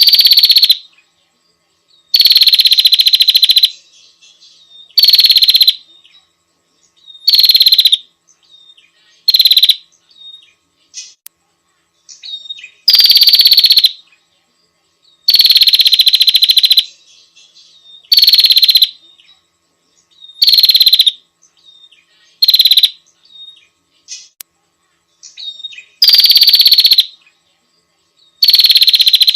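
Prenjak (prinia) lure call of a female calling a male: a loud, rapid buzzy trill centred high in pitch, each about half a second to a second and a half long, repeated about every two seconds, with faint short chirps between.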